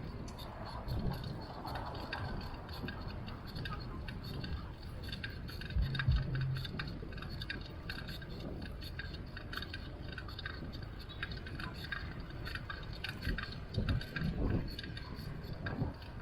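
Riding a bicycle: a steady low rumble of wind and road with frequent light rattles and ticks from the bike. A brief low tone sounds about six seconds in.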